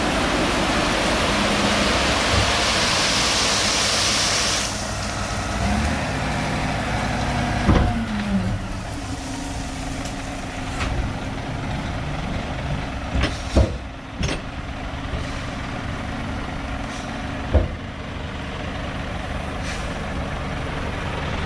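Lorry delivering a load of ballast: a loud hiss for the first four or five seconds that cuts off sharply, then the diesel engine running, its pitch rising and falling once, with a few sharp clunks.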